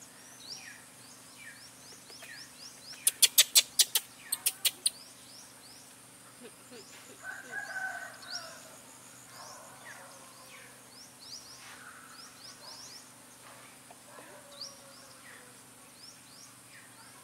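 Birds calling outdoors, with short downward-sliding chirps repeating throughout and a brief lower call near the middle. A burst of about a dozen loud, sharp clicks comes in two quick runs a few seconds in.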